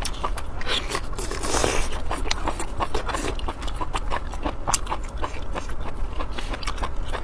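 Close-miked chewing: a person eating with steady wet mouth clicks and smacks, a few a second, and a louder scraping noise about a second and a half in.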